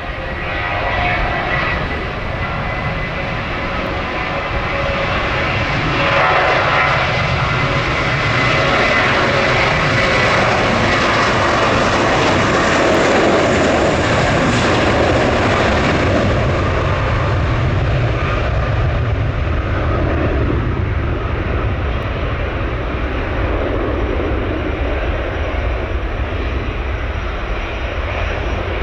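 Jet airliner engines heard passing: the noise builds over the first several seconds, is loudest roughly halfway through, then turns duller as the high end falls away.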